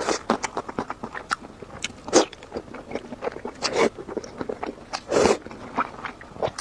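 Close-miked eating: a person biting and chewing food, with many small crisp clicks and several louder, longer bites about two, four and five seconds in.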